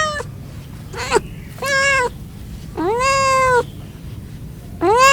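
Cat meowing repeatedly, about five clear meows each rising then holding its pitch, the longest one near the middle.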